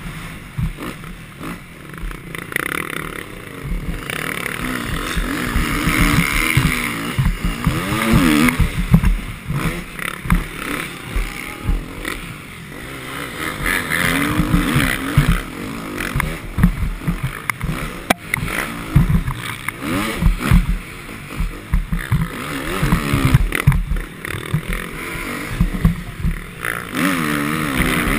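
Motocross bike engine being ridden hard, its revs climbing and dropping again every few seconds, over a heavy low rumble with many knocks.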